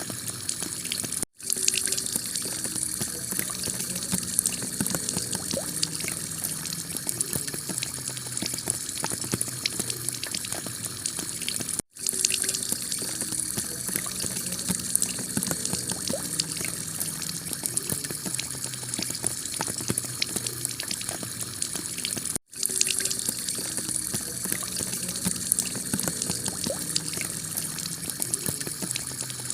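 Heavy rain pattering on clay roof tiles, a steady wash with dense drop ticks. The recording is a loop that cuts out for an instant three times, about every ten and a half seconds.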